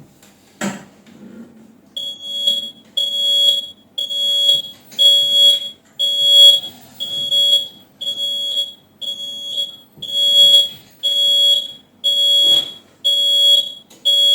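Electronic buzzer on a Lavor Comfort XXS floor scrubber beeping at about one beep a second, with a click just before the beeping starts.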